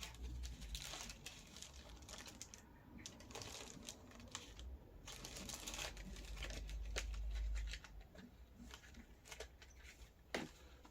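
Faint crinkling of plastic packaging as small accessories are handled, with scattered light clicks and taps.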